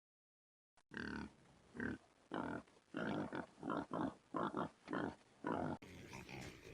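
Domestic pig grunting: a run of short grunts, roughly two a second, starting about a second in and giving way to a quieter stretch of sound near the end.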